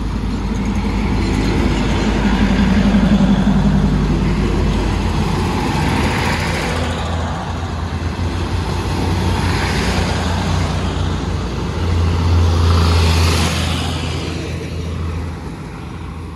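Diesel train running past on the tracks: a steady low engine drone with a swell of rumbling wheel noise about every three to four seconds, easing off near the end.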